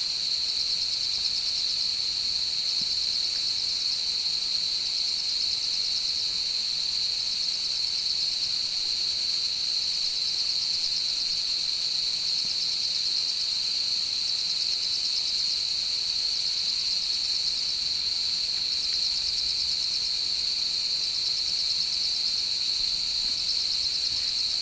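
Chorus of autumn night insects, crickets among them, singing without a break: one steady high trill, with faster pulsing chirps higher up.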